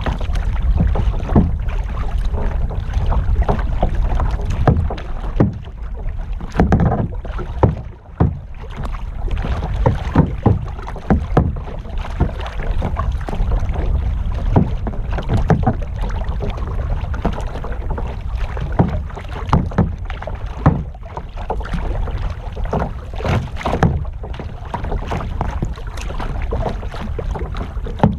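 Kayak paddling: the paddle blades dipping and splashing in the water in irregular strokes, about one every second or so, over a steady low rumble of wind on the microphone.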